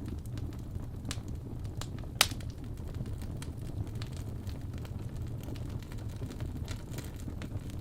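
Fireplace fire crackling over a steady low rumble, with scattered small snaps and one sharper, louder pop about two seconds in.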